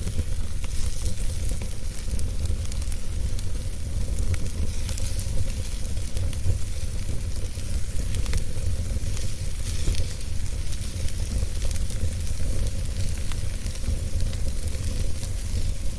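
Wood fire burning in a fireplace, with many sharp crackles and pops scattered over a steady hiss and a low rumble.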